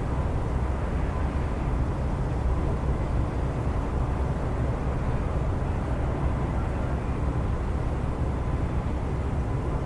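Steady low rumble of jet airliner engines across the airfield, with a faint steady whine.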